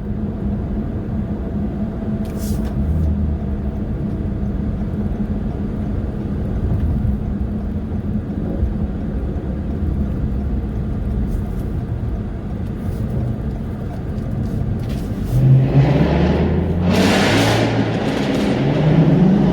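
Car engine and road noise while driving, a steady low drone. Near the end the engine revs up with a rising pitch, along with a rush of hiss.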